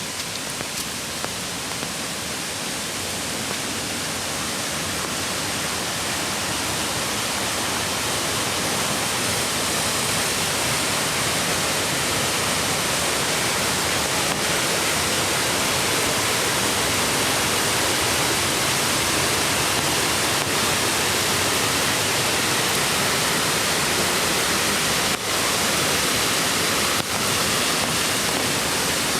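Mountain creek rushing over rocks, a dense steady hiss of running water that grows louder over the first several seconds and then holds steady.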